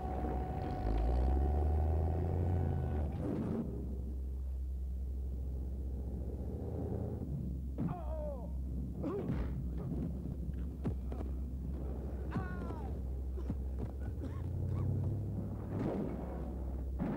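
Car engine running with a steady low rumble, with scattered knocks and thuds and a few short squeals that fall in pitch around the middle.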